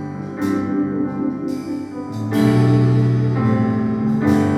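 Worship band playing between sung lines of a gospel song, with piano or keyboard chords held and changing every second or two.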